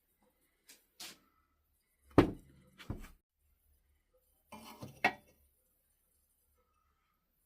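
A few separate clinks and knocks of hard objects being handled, such as metal tools and a knife blade at a small forge. The loudest comes about two seconds in, and another short cluster comes near the middle.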